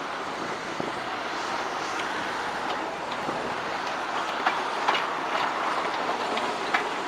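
A Class 317 electric multiple unit moving past on the rails: a steady running noise with scattered light clicks from the wheels.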